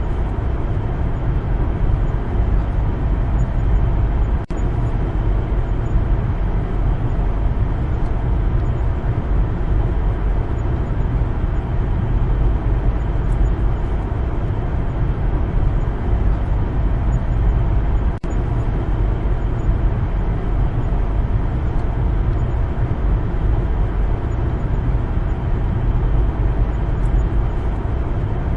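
Car driving at steady speed: a constant low rumble of engine and tyres on the road, with two brief dips in level.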